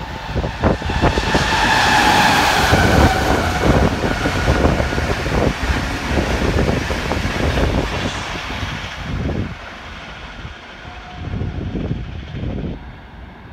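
Diesel train running through the station at speed. It is loud for the first few seconds, with a falling whine and rough buffeting on the microphone, then fades away after about nine seconds.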